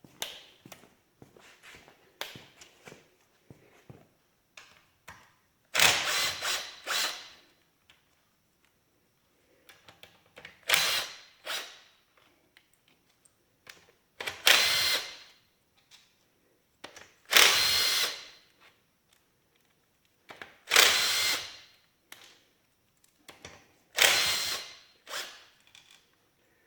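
Handheld power tool running in six short bursts of about a second each, a few seconds apart, as it backs out the bolts of the engine's rear main seal cover. Small clicks of tool and parts handling sound between the bursts.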